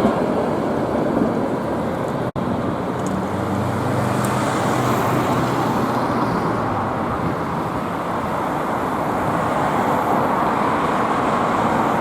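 Steady street traffic noise, with a faint low engine hum for a few seconds; the sound drops out abruptly about two seconds in, at a cut between clips.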